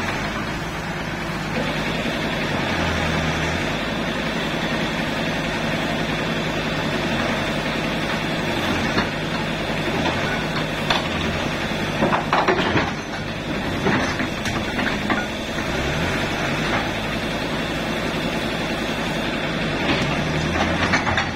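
Heavy diesel engine of earth-moving equipment running steadily, with a few brief knocks about twelve to thirteen seconds in and again near the end.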